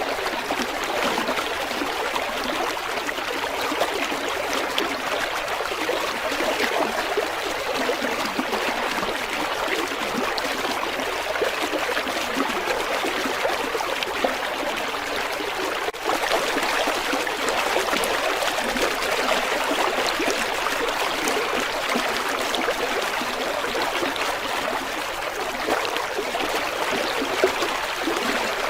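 River water flowing steadily, an even rush of moving water with a momentary dip in level about halfway through.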